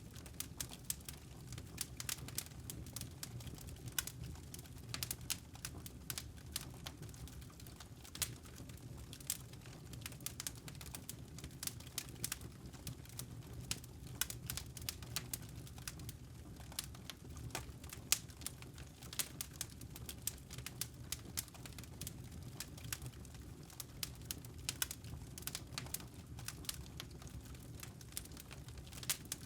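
Wood fire crackling: firewood burning with irregular sharp pops and snaps over a steady low rumble.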